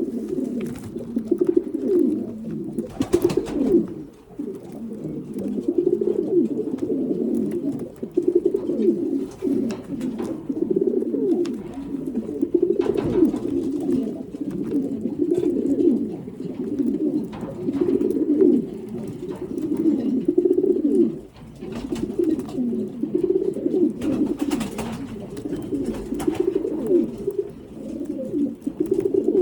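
Racing pigeons cooing continuously in overlapping low, rolling coos: the courtship cooing of mating pigeons. Three short sharp noises cut through the cooing.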